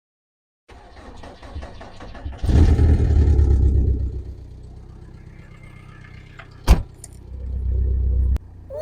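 Mk2 Volkswagen Caddy van's engine starting from cold in frost: a loud burst about two and a half seconds in that settles to a lower running sound. Then comes a single sharp knock, and another loud spell near the end that cuts off suddenly.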